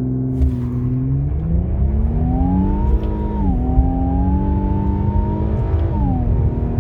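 2020 Infiniti Q50's 3.0-litre twin-turbo V6 at full throttle from a launch. Its pitch climbs steadily, falls sharply about halfway through as the transmission upshifts, then climbs again to a second upshift near the end, over a constant low road rumble.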